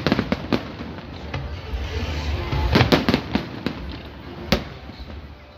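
Fireworks display: aerial shells bursting in sharp bangs over a low rumble, a few at the start, a quick cluster about three seconds in, and one more single bang later.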